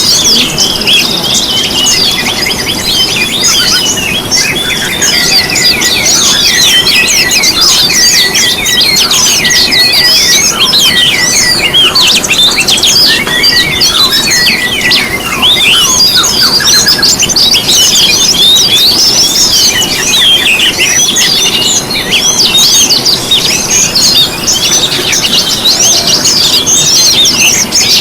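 Dense chorus of small songbirds, many high, rapid chirps and twittering trills overlapping without pause, over a steady low rushing noise.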